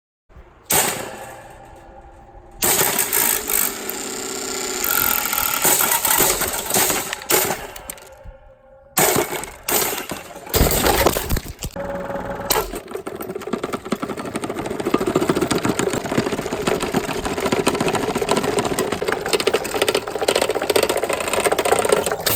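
Vintage Toastmaster table fan being smashed apart: loud, irregular crashing and breaking noise, with a long stretch of continuous rattling clatter from about halfway on.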